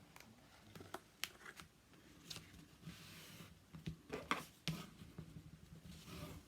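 Faint handling of paper and craft supplies: scattered small taps and clicks, with two brief soft rustles, about three seconds in and near the end.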